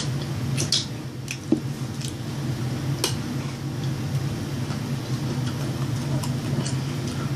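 Close-up mouth sounds of someone eating fried chicken: irregular wet clicks and smacks of chewing, over a steady low hum.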